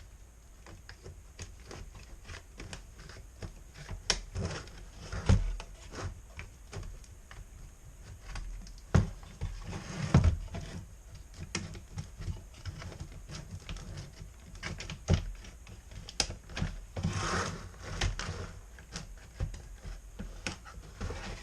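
Irregular clicks, taps and knocks of a TIPM fuse box's housing and circuit board being handled as the board is worked out of its case, with a few louder knocks and a brief rustle in between.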